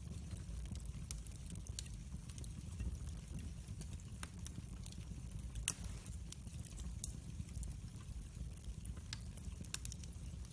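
Wood fire crackling, with irregular sharp snaps and pops over a low steady rumble, and one louder pop about halfway through.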